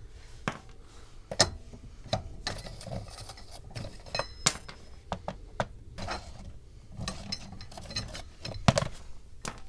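Irregular metal clicks, clinks and knocks from hand tools being used on the car, a few with a brief metallic ring.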